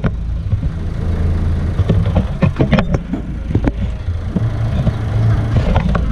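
Bus engine idling with a steady low rumble, while a run of sharp knocks and clicks comes about two to four seconds in.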